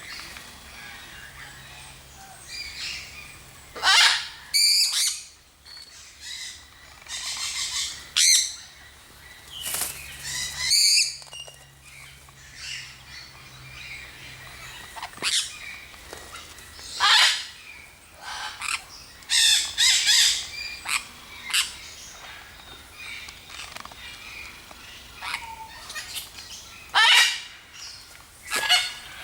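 Aviary birds calling: loud, harsh calls at irregular intervals, with softer chirps between them.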